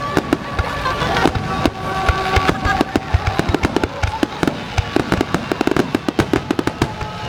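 Fireworks finale: a dense, rapid barrage of sharp bangs and crackles from aerial shells, with no let-up.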